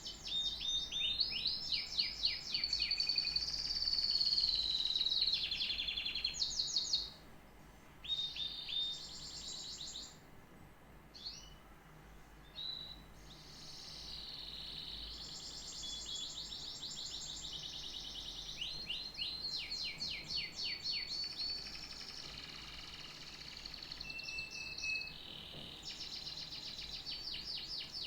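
Domestic canary singing a long song of fast, high trills, each a run of rapidly repeated notes, passing from one trill to the next, with a held whistled note early on and two short breaks in the first half.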